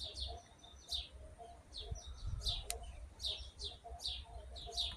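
Birds chirping over and over, short high chirps that each fall in pitch, with fainter lower notes between them and a low rumble underneath; one sharp click a little past the middle.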